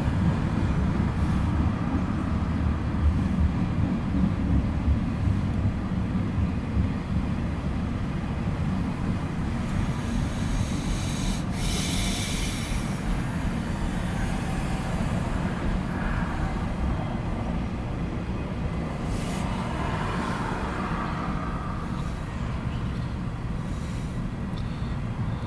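Freight train of double-stack intermodal container cars rolling past, a steady low rumble of wheels on rail. Twice in the middle a brief higher-pitched hiss rises over it.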